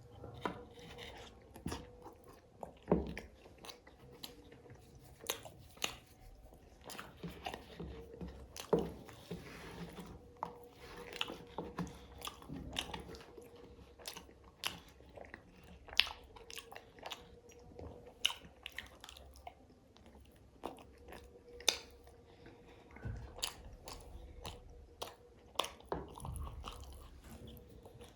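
Close-miked eating: a person biting and chewing, with irregular sharp crunches and mouth clicks, over a faint steady hum.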